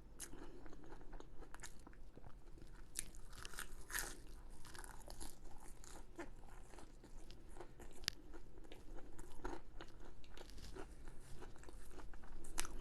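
Close-miked eating sounds: chewing with a scatter of sharp crunches as crisp food is bitten and chewed.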